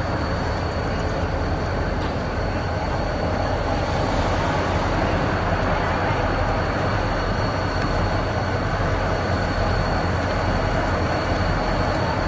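Diesel freight locomotives running, a steady low engine rumble with rail noise.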